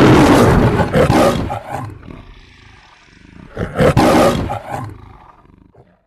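The lion roar of the Metro-Goldwyn-Mayer logo: a loud roar at the start that fades away, then a second roar about three and a half seconds in that tails off to silence.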